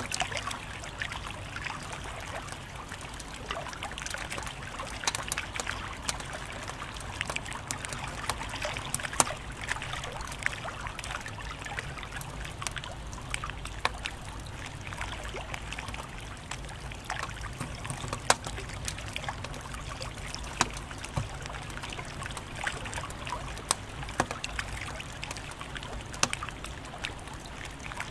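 Wood fire crackling, with frequent sharp pops and snaps, a few louder than the rest, over a steady low hiss.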